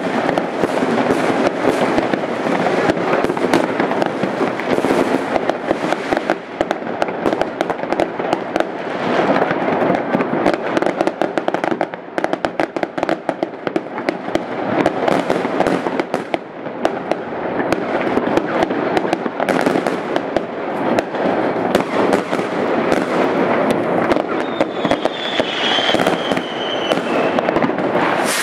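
Many fireworks and firecrackers going off at once: a dense, unbroken run of bangs and crackling. A whistle falls in pitch near the end.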